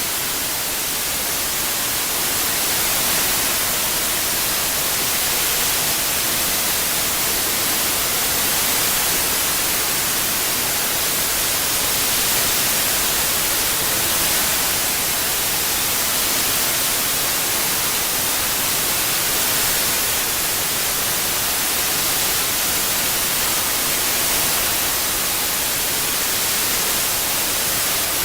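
Steady synthetic white noise: an even hiss, strongest in the treble, played for tinnitus masking, with slight slow swells in loudness.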